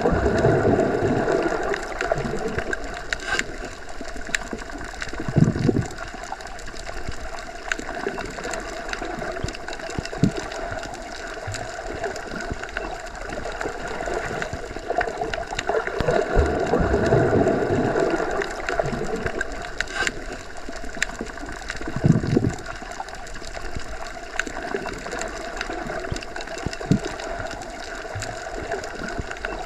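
Underwater ambience as heard while submerged: a steady, muffled water rush that swells twice, with a few low thumps and faint ticks.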